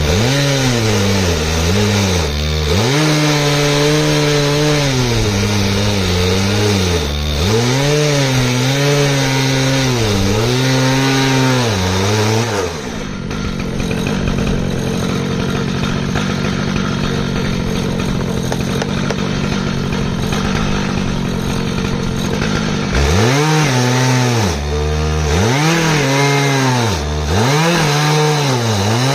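Stihl MS881 two-stroke chainsaw on an Alaskan chainsaw mill, cutting through an ash log under load. The engine note repeatedly sags and climbs as the bar bogs and recovers in the cut; for about ten seconds in the middle it holds steadier and noisier before the sagging and climbing returns.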